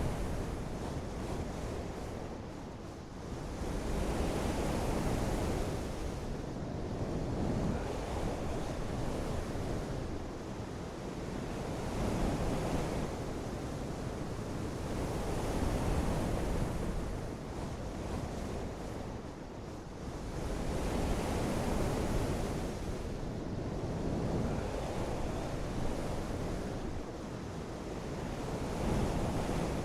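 Rushing water noise, strongest in the low and middle range, that swells and eases every four or five seconds.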